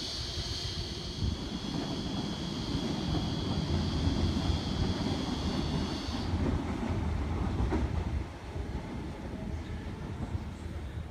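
Sydney Trains H set (OSCAR) intercity electric train running through the station at speed without stopping: a steady low rumble with a high whine that cuts off about six seconds in, and the rumble easing off after about eight seconds.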